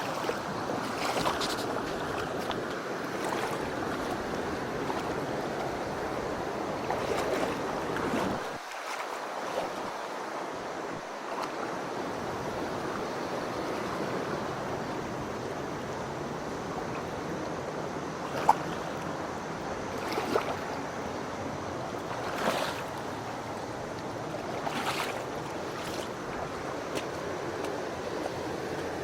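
Mountain stream water rushing steadily over rocks, with a few short sharp knocks scattered through it.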